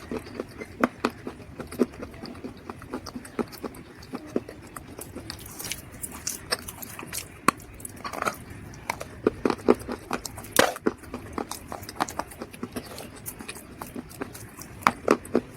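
Dried mud crunching and crumbling: a run of irregular sharp cracks and crackles, with one loud snap about ten and a half seconds in.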